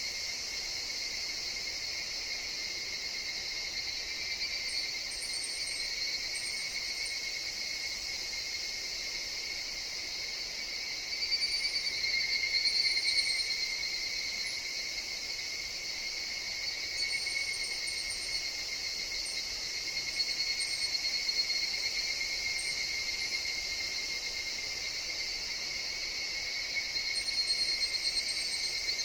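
Chorus of higurashi (evening cicadas), a steady high ringing drone that swells louder several times, with brief faint high chirps over it.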